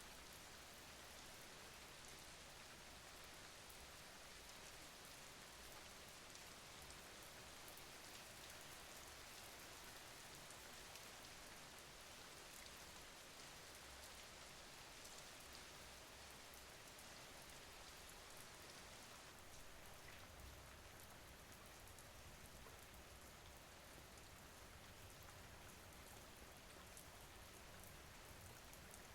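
Faint, steady rain falling: an even hiss of drops with no distinct strikes or breaks.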